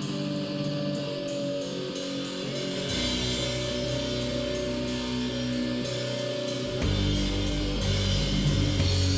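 Live rock band playing an instrumental passage: guitar over drums with steady cymbal ticks. The low end comes in about three seconds in, and the band gets louder near the end.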